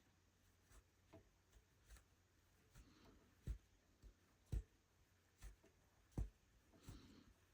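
Faint, irregular soft taps and pops, about one a second, from a rug hook punching through the backing cloth and pulling up wool loops.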